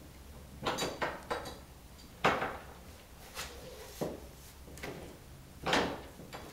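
Irregular clanks and knocks, about nine in all, some ringing briefly, from gear being handled while a car is unloaded from a trailer.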